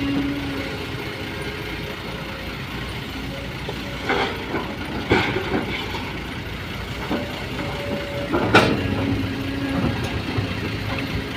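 Vehicle engine running with a steady hum, broken by a few sharp knocks or bangs, the loudest about two-thirds of the way through.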